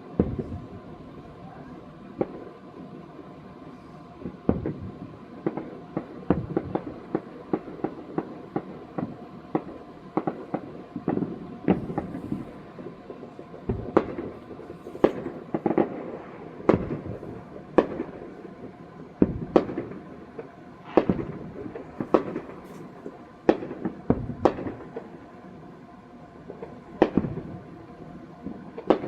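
Fireworks going off: dozens of sharp bangs at irregular intervals, coming thickest in quick clusters in the middle of the stretch.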